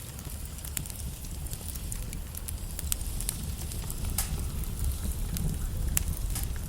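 Log fire burning, with frequent irregular crackles and sharp pops over a steady low rumble of the flames; the sharpest pops come about four and six seconds in.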